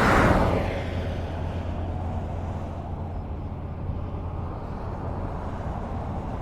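Highway traffic: a vehicle passes close by at the very start, its tyre and engine noise fading over about a second, then a steady low rumble of road noise until the next vehicle starts to approach near the end.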